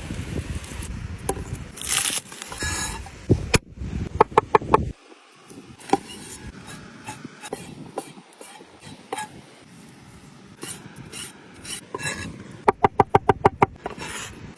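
Food-preparation handling: scraping and rubbing, with sharp knocks that come in quick runs, a few about four seconds in and about eight in a row near the end.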